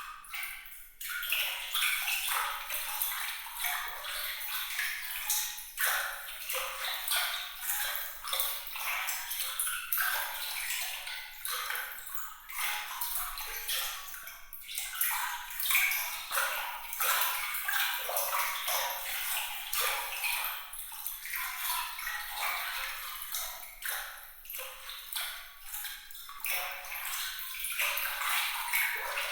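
Bright, trickling and splashing water full of small droplet plinks, sitting high with almost no low rumble. It is a little quieter for the first second, then runs on unevenly.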